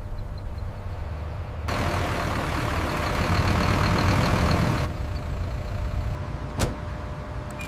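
Low, steady rumble of heavy factory machinery, louder with more hiss from about two to five seconds in, and one sharp click near the end.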